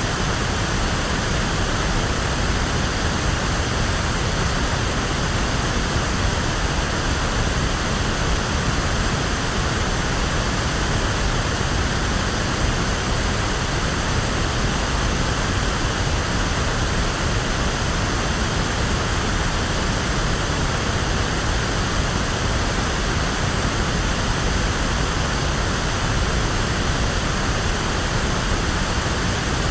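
Steady electronically generated pink noise: an even, unchanging hiss with more weight in the lows, like a waterfall or the sea.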